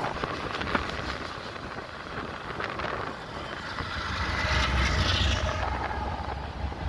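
Freight cars rolling past with a steady rumble and clatter of steel wheels on rail. About four seconds in, the mid-train GE ES44AC diesel-electric locomotive passes, and its V12 diesel engine's low drone swells, then eases off. Wind buffets the microphone.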